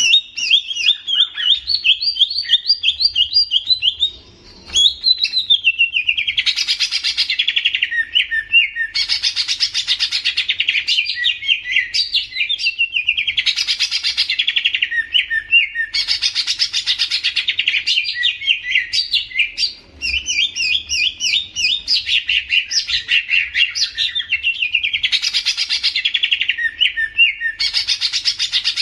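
A green leafbird (cucak ijo) singing loudly and almost without pause in fast, varied chirping trills. Harsher, buzzier phrases recur every three to four seconds, with two brief breaks in the song.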